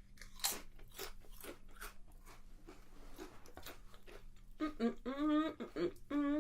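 Potato chips being bitten and chewed with a run of sharp, irregular crunches. In the last second and a half a wordless voice sound follows.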